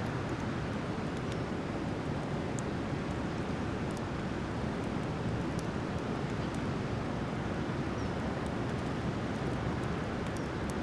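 Driftwood campfire burning, with a few sharp, scattered crackles and pops over a steady low rushing noise.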